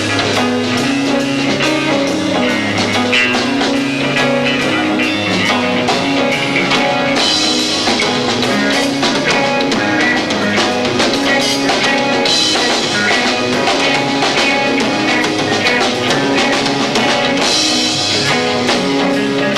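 Live rock band playing an instrumental passage with two drum kits, bass and electric guitar, heavy and fast-paced. Bright cymbal washes swell about every five seconds. The low-fi sound comes from a 1990s camcorder's built-in microphone.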